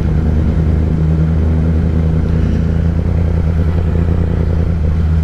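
Kawasaki ZX-10R's inline-four engine with a Graves race exhaust running at a steady cruise, its pitch holding even.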